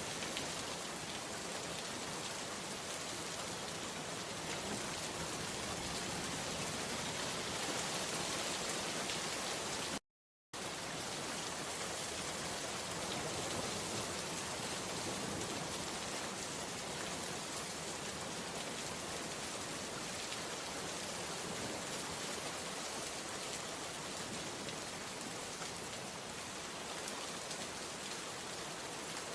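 Steady rain falling, an even hiss of drops. About ten seconds in, the sound cuts out completely for about half a second, then resumes.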